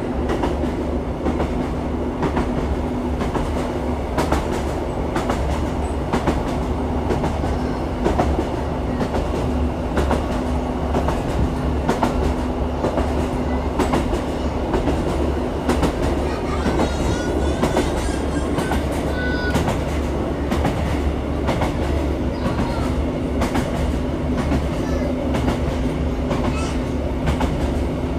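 Diesel passenger train running along the line, heard from inside the carriage: a steady low rumble and engine hum, with wheels clicking over rail joints every second or so.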